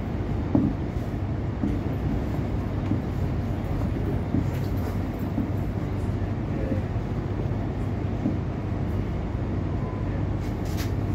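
Cabin noise of an X'trapolis electric suburban train running along the line: a steady low rumble of wheels on rails, with a few faint clicks.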